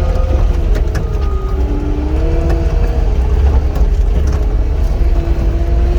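Cat 259 skid steer's diesel engine running steadily under load, with a whine whose pitch slides up and down as the machine works, and occasional light clicks and rattles.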